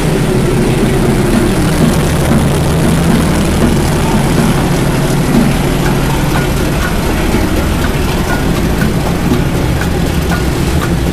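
Diesel-hauled train rolling past within arm's length: a loud, steady low rumble of the locomotive and carriages on the rails, with faint clicks in the second half.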